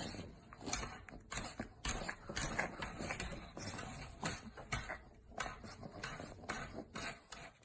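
An irregular series of soft clicks and knocks, a few each second, with quieter rustling noise between them.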